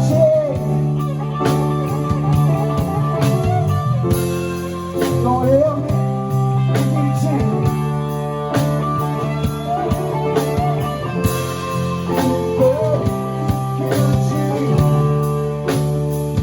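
Rock band playing, an electric guitar lead with bending notes over held chords and drums.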